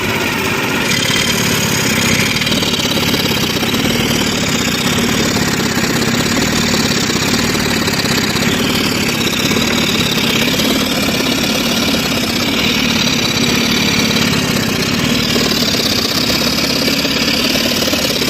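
Car engine idling with a rapid, steady clatter. The engine is misfiring and sprays oil out of the oil filler opening while it runs.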